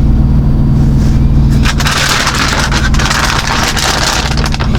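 Semi truck's diesel engine idling with a steady low hum. From about two seconds in, a crackling, rustling noise rises over it.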